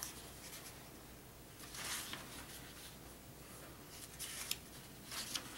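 Faint rustling and handling noises: a few short brushing scrapes, about two seconds in and twice near the end, with a soft click at the start.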